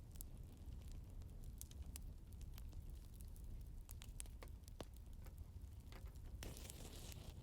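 Wood fire crackling: scattered sharp pops and ticks over a low steady rumble, with a short hissing burst about six and a half seconds in.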